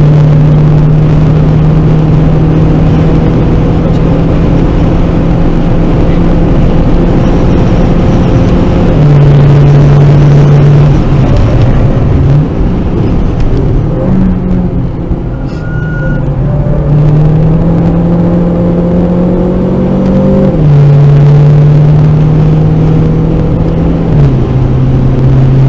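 Renault Clio RS 1.6-litre turbo engine under hard acceleration, heard inside the cabin. The note climbs and then drops at each gear change, about 9, 20 and 24 seconds in. In the middle it goes quieter and uneven, with several short shifts.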